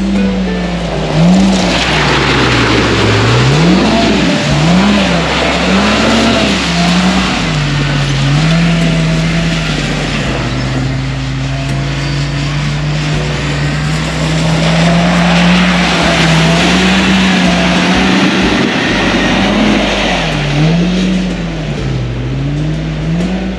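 Polaris RZR Pro R side-by-side engine under way, its pitch rising and falling over and over as the throttle is worked on and off. A loud rushing noise, wind and tyres, swells twice along with the engine.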